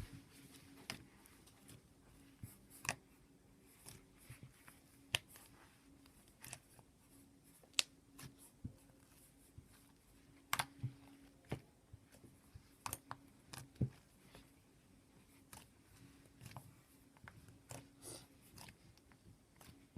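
Slime being squeezed and poked by hand for ASMR, giving faint, irregular little clicks and pops.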